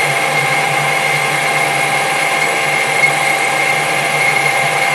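Metal-turning lathe running with a steady whine, a boring tool cutting a counterbore in a steel adapter.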